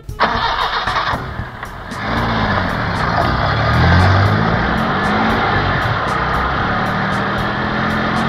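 Car engine sound effect for an animated taxi driving off. A dense rush of noise in the first two seconds gives way to an engine hum whose pitch swells up and down, then holds and rises slowly near the end.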